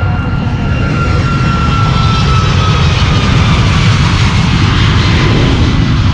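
Cessna 210's engine and propeller running as a loud, steady drone. A whining tone in it sinks slowly in pitch, and a hiss swells and eases.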